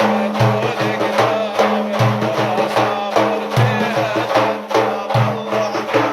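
Instrumental break of Middle Eastern folk music: a drum beats a steady rhythm under a wavering melody line and a steady held drone.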